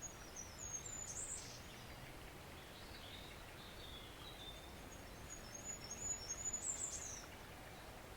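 Steady rush of a woodland stream, with a songbird singing two quick high twittering phrases, one near the start and one about five and a half seconds in, and a fainter bird calling between them.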